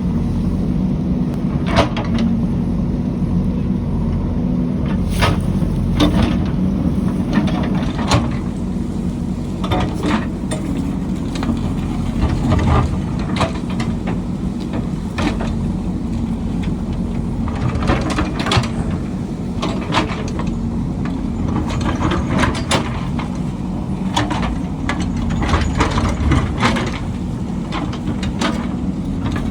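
Diesel engine of a heavy construction machine running steadily under load, with repeated sharp metallic clanks and knocks from its working parts.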